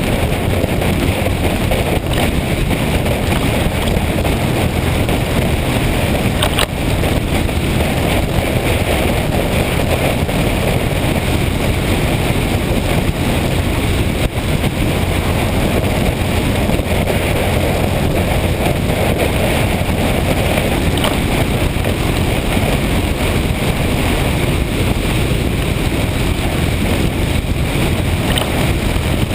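Wind rushing steadily over the microphone of a motorcycle on the move, with the bike's engine running underneath at a steady cruise.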